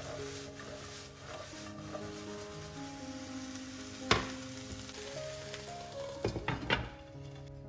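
Food sizzling as it fries in a pan while being stirred. A few sharp knocks come through, the loudest about four seconds in and a quick cluster a little after six seconds.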